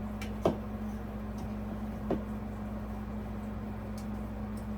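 A few light clicks and knocks of small parts being handled during ceiling fan assembly, the sharpest about half a second in, over a steady low hum.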